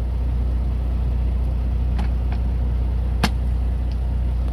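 Semi-truck engine idling, a steady low rumble heard inside the cab, with a few light clicks and one sharper tap a little past halfway.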